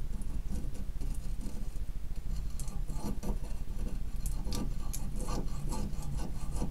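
Light, irregular clicks and taps of metal brake caliper parts being handled as a freshly greased slide pin is fitted, over a steady low hum.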